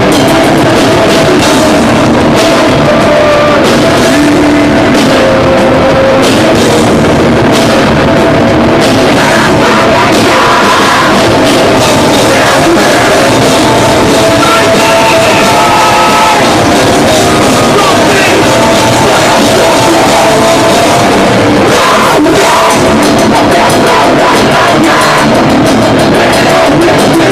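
Metalcore band playing live and loud: distorted electric guitars, bass and a pounding drum kit, with vocals over the top.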